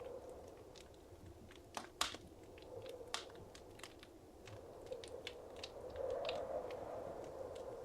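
Wood fire crackling in a fireplace: irregular sharp pops and snaps, the loudest about two seconds in, over a soft steady rush of the flames that swells near the end.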